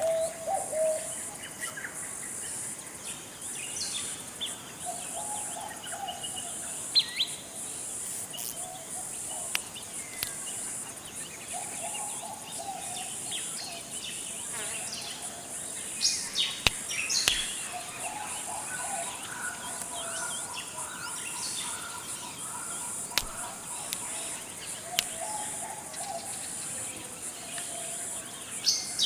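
Forest ambience: a steady high-pitched insect drone under scattered short bird chirps, with a lower bird call coming back every few seconds. A few sharp clicks sound about two-thirds of the way through.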